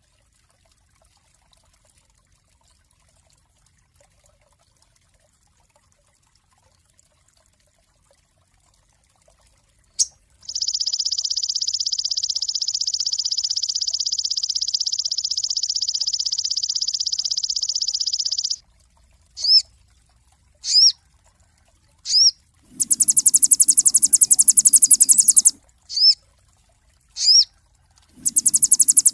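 Sogon bird song after a silent start. About ten seconds in, a long rapid trill runs for about eight seconds. It is followed by short, quick up-slurred whistle notes alternating with bursts of a very high, fast buzzing trill.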